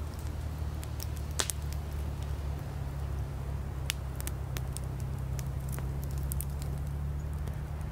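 Wood campfire crackling, with scattered sharp pops from the burning firewood, the loudest about a second and a half in, over a steady low rumble.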